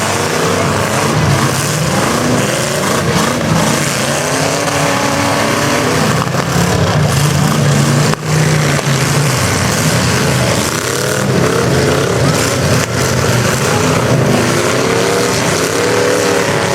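Several demolition derby cars' engines revving hard at once, their pitches rising and falling over one another in a loud, dense din.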